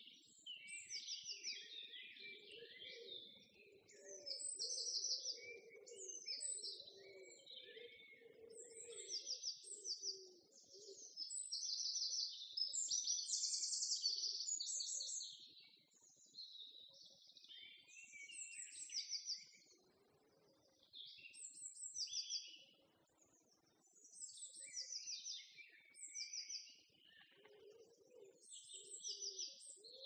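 Several songbirds singing and chirping together in overlapping high calls, some as quick repeated trills. A lower sound runs beneath the birdsong for about the first ten seconds and comes back near the end.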